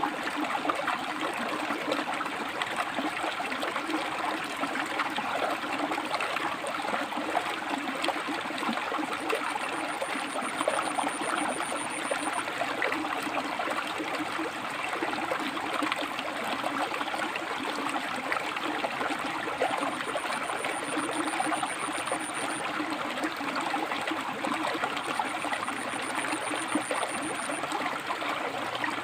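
River water flowing and splashing steadily between rocks. A faint high, thin trill comes and goes three or four times, each lasting a few seconds.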